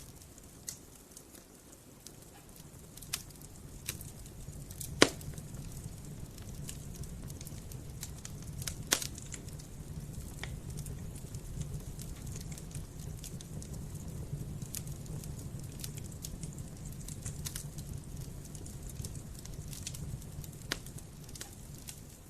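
Campfire crackling, with scattered sharp pops from the burning wood over a low steady rumble; the two loudest pops come about five and nine seconds in.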